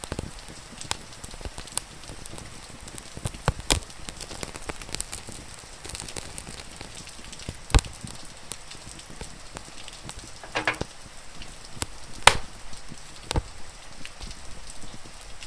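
Wood fire crackling, with sharp pops that are loudest about four, eight and twelve seconds in, over a steady patter of rain.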